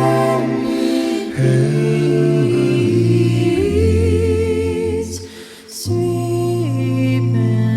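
Vocal music: a cappella voices singing and humming sustained harmonies, with a brief dip about five and a half seconds in.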